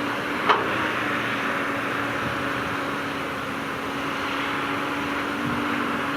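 Heavy earthmoving machine's engine running steadily, with one sharp knock about half a second in.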